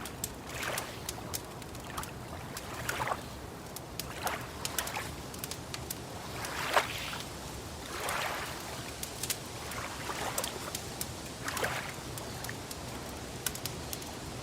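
Small waves lapping and sloshing every second or two, with a wood fire crackling in many sharp pops throughout.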